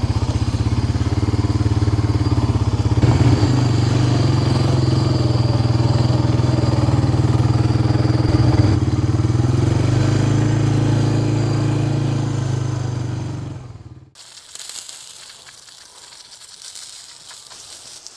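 Skid steer's engine running steadily under work, then shut off about fourteen seconds in, winding down to a stop; a faint background remains afterwards.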